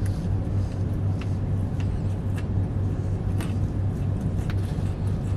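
Car engine idling with a steady low hum, heard from inside the cabin, and faint regular crunches of chewing about once a second.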